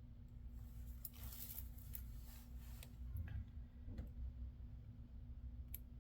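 Faint handling noises of laptop parts during a screen replacement: a few scattered light clicks and a short scraping rustle about a second in, over a steady low hum.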